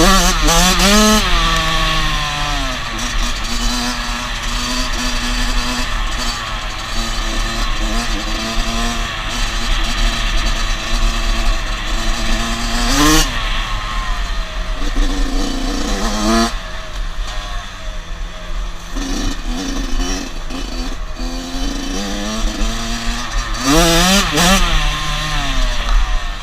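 Dirt bike engine running under way, its pitch rising and falling as the throttle is worked, with sharp revs near the start, about halfway through and near the end.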